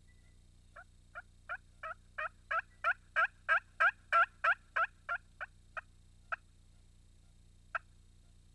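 Wild turkey yelping in the cadence of a hen: a run of about seventeen short, evenly spaced yelps at roughly three a second that build in loudness and then fade, followed by one single yelp near the end.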